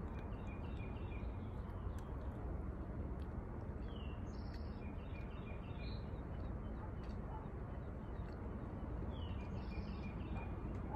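Outdoor backyard ambience: a steady low rumble with a songbird singing the same short phrase three times, about every four to five seconds. Each phrase is a quick downward note followed by a run of short chirps.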